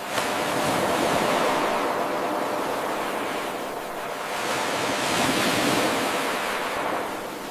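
Ocean waves washing in on a shore. The sound swells and recedes twice: the first surge starts abruptly just after the start, at the seam of an 8-second loop, and a second surge builds about five seconds in.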